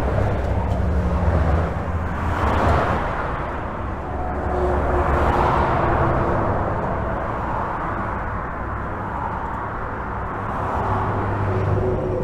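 Continuous highway traffic heard from under a bridge: a steady low rumble of tyres and engines, with vehicles passing one after another as swells of tyre hiss every few seconds.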